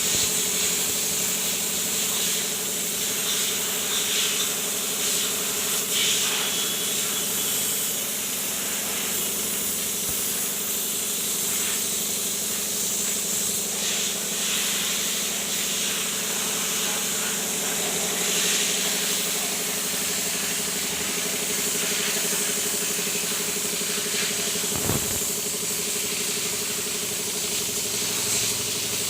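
Mahindra Bolero DI turbo four-cylinder diesel engine idling steadily, with a constant high hiss over its even hum. There is a single short knock near the end.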